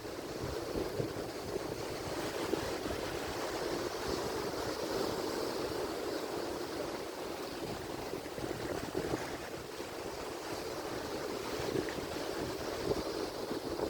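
Atlantic Ocean surf: a steady rush of wave noise with no single breaker standing out, the level rising and falling only a little.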